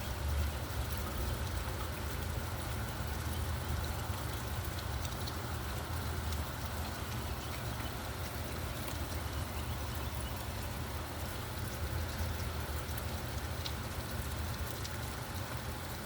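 Steady rain with a fine patter of drops, over a continuous low rumble of road traffic.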